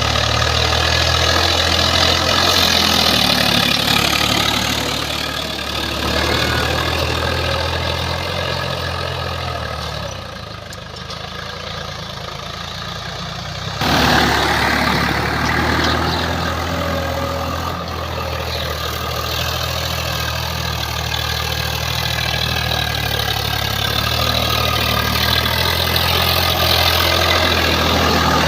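Swaraj 855 tractor's diesel engine running at a steady speed. It drops quieter about ten seconds in and comes back suddenly at full level about fourteen seconds in.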